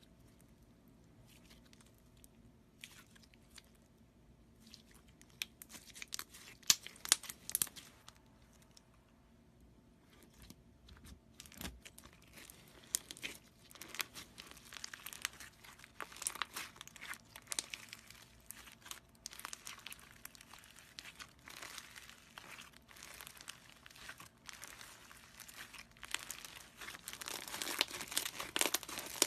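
Slime being squeezed and worked by hand, giving crackling, clicking pops. Sparse sharp clicks at first, then denser, louder crackling in the second half.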